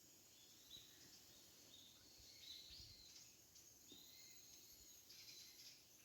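Faint outdoor night ambience: short high chirps and calls from insects and birds over a low hiss.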